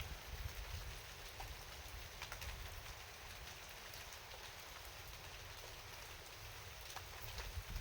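Rain falling steadily at night: an even hiss with scattered light drop ticks and a faint low rumble underneath.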